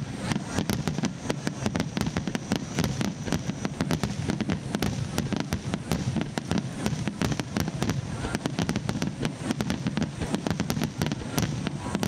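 Aerial firework shells bursting in a dense, unbroken barrage: many bangs and cracks a second over a continuous low din.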